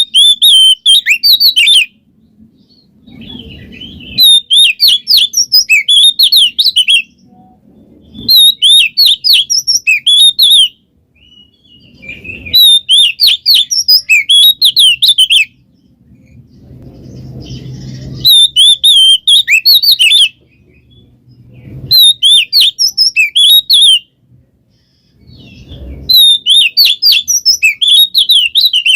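An Oriental magpie-robin (kacer) singing loudly in repeated bursts of rapid, high chattering notes. About seven phrases of two to three seconds each are broken by short pauses.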